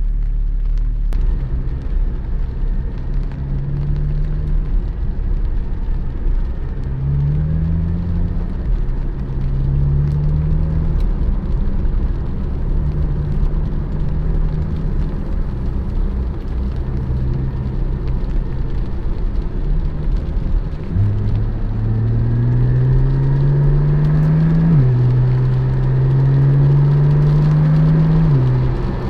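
Porsche 718 Spyder's 4.0-litre flat-six running while driving, its pitch rising and falling with the throttle. Near the end it pulls for two longer stretches, each ending in a sudden drop in pitch at an upshift.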